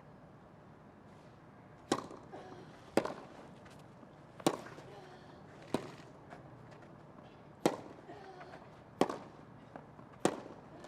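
Tennis rally: a ball struck back and forth by rackets, seven sharp hits spaced about one to two seconds apart, with the crowd hushed.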